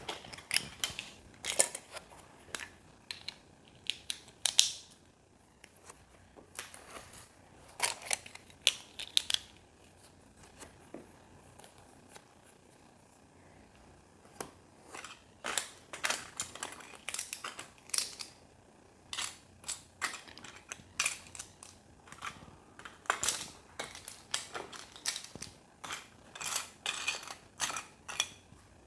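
Small hard plastic building pieces clicking and clacking as they are handled and pressed together, in irregular quick bursts with a quieter lull about a third of the way through.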